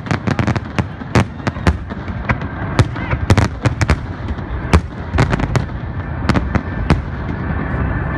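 Fireworks display: a dense barrage of aerial shell bursts, many sharp bangs in quick, irregular succession over a continuous low rumble.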